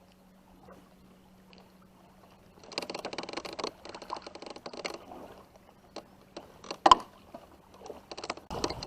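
Handling noises in a small boat as an angler reaches over the side to pull out a lure. A burst of rustling and clatter starts about three seconds in and lasts about two seconds, followed by scattered small knocks and one sharp loud knock about seven seconds in, over a faint steady hum.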